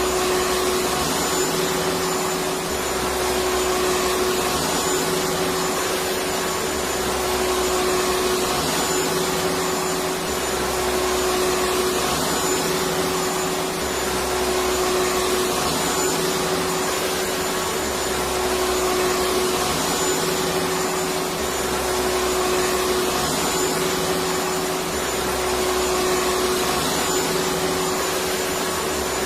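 Electric vacuum cleaner running steadily: an even whooshing hiss with a constant hum, gently rising and falling every few seconds.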